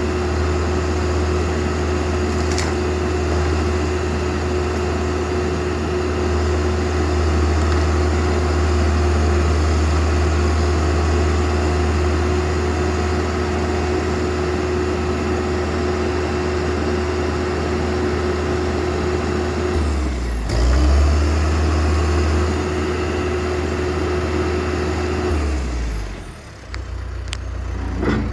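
Backhoe's diesel engine running steadily with a constant hum, briefly changing about two-thirds of the way through and dropping off near the end before picking up again.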